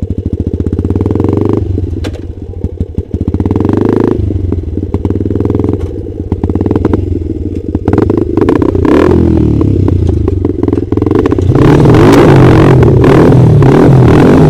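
Trail motorcycle engine running and revving up and down in bursts, getting louder and staying high near the end.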